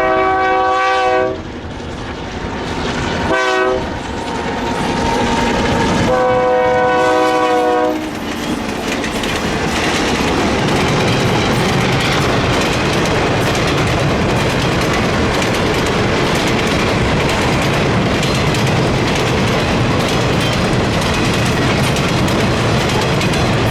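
Diesel locomotive air horn sounding a long blast, a short one and another long one, the end of a grade-crossing signal. The train then runs past with a steady rumble and wheels clacking over the rail joints.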